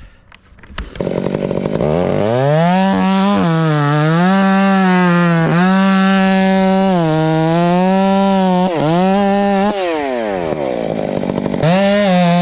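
Small two-stroke engine revved up from idle about a second in and held at high revs, with the throttle eased off briefly a few times, dropping back toward idle about ten seconds in and revving up again near the end.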